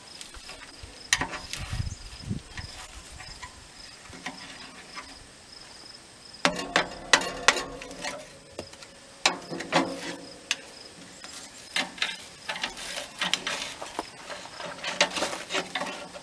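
A furnace door gasket being pulled and worked off the door: irregular bouts of scraping, tearing and small clicks, several seconds apart. A steady high insect trill runs underneath.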